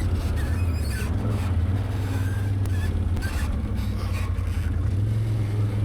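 Can-Am Outlander 850XT ATV's V-twin engine running steadily on a trail, with a low, even drone and a few light knocks from the machine over rough ground.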